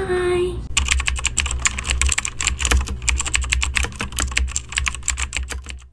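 A held sung note ends in the first moment. Then comes fast, irregular clicking, as of typing on a keyboard, over a low rumble, until the sound cuts off abruptly at the end.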